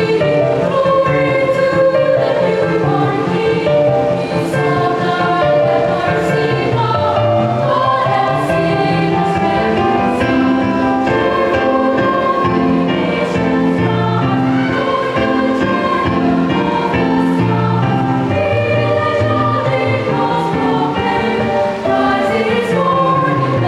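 Children's choir singing a Christmas carol in sustained, flowing phrases, with a lower part joining about seven seconds in.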